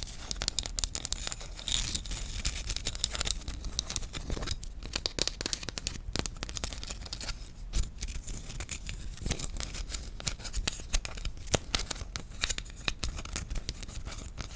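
Rapid, crisp tapping on wooden objects, many light taps a second in an irregular stream.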